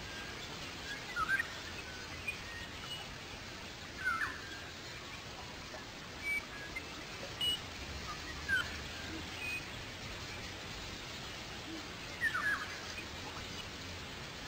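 Small birds giving short, sharp chirping calls every few seconds over a steady background hiss.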